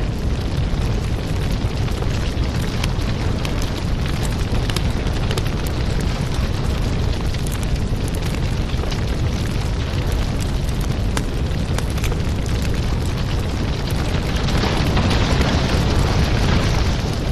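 Wood fire in a fireplace crackling steadily over a low rumble, with a hissier stretch near the end.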